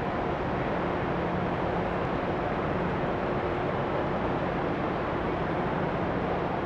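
Steady machinery hum and rush of a large passenger ferry, the Ogasawara Maru, with faint steady low tones and no change.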